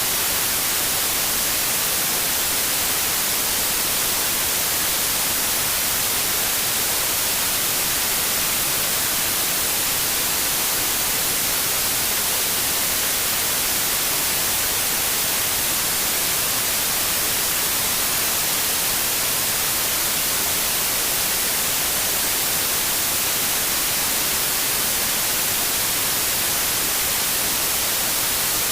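Steady electronic white noise: an even, unchanging hiss, brighter in the high end.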